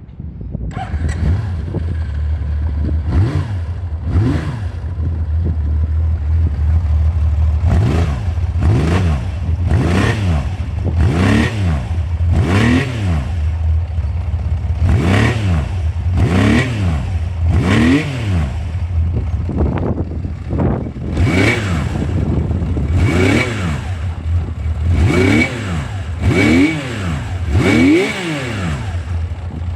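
Honda CBX1000's air-cooled inline six-cylinder engine running and blipped repeatedly on the throttle, each rev rising sharply and falling straight back to idle. There are a couple of light blips early, then a long series of quick blips about one every second or so.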